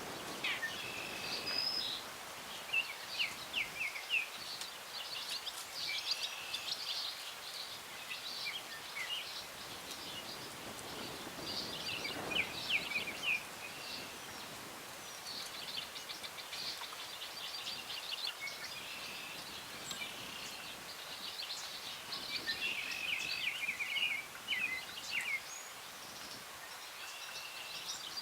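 Several small birds chirping and trilling, calls overlapping throughout, over a steady breeze rustling the branches of the trees.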